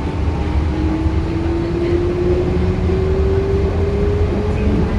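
Yurikamome rubber-tyred automated train running, a steady low rumble with a motor whine rising slowly in pitch as it gathers speed.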